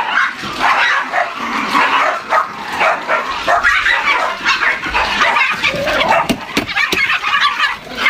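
A dog barking and yipping in rapid, irregular bursts, almost without pause.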